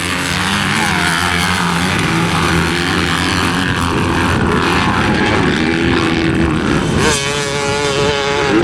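Several motocross dirt bikes' engines revving up and down as they race around the track. About seven seconds in, one bike comes up close with a loud, high, steady engine note held near full throttle.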